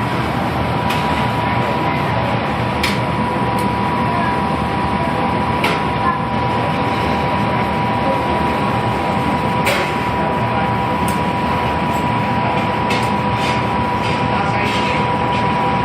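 Steady roar of a glassblowing workshop's gas burner, with a faint steady whine and a few light clicks over it.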